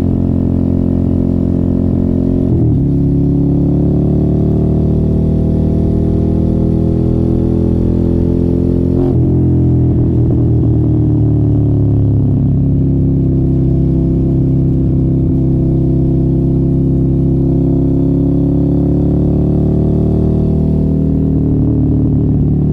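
Suzuki sport motorcycle with an aftermarket exhaust running under way, heard on board. The engine note breaks sharply twice, a few seconds in and again about nine seconds in. Otherwise it holds steady, rising and falling slowly in pitch.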